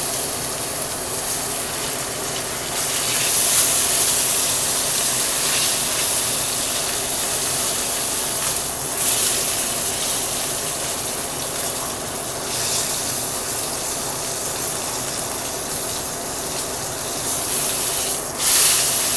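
Boneless pork loin searing in a hot pan: a steady sizzle that swells up several times, as the sides of the roast are browned to seal in the juices.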